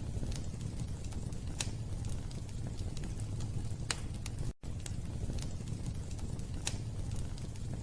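Wood fire burning in a fireplace: a steady low rumble of flames with sharp crackles and pops every second or two. The sound cuts out for an instant just past halfway.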